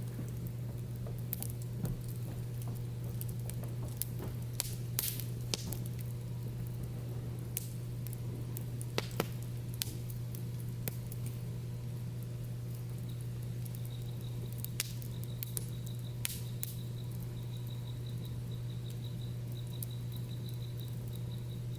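Campfire wood crackling and popping in sharp, irregular snaps over a steady low hum. From a little past halfway, an insect joins with a rapid, pulsing high-pitched trill.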